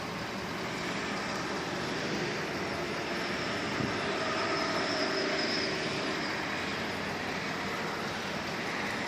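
Road traffic noise: a vehicle going by, swelling to its loudest about halfway through and then fading.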